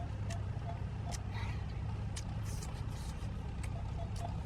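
A steady low hum, like a motor running, with scattered sharp clicks and a few brief rustles.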